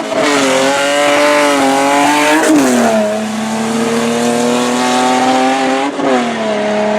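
Hillclimb race car engine running hard at high revs. Its pitch jumps and drops sharply about two and a half seconds in and again near six seconds, as with gear changes or lifting off, and holds steady in between.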